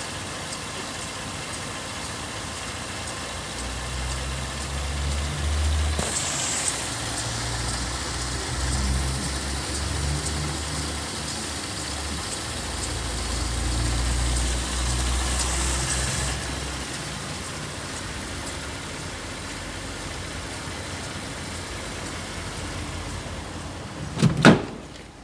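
Holden Commodore 3.6-litre V6 engine running at idle, its note swelling twice for several seconds as the revs are raised. A loud thump comes near the end.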